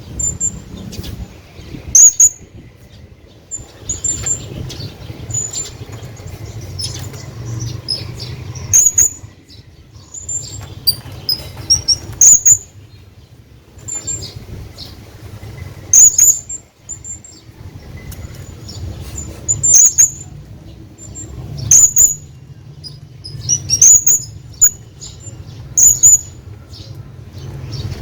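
Hanging parrot giving short, high-pitched squeaky calls, repeated about every two seconds, over a steady low rumble.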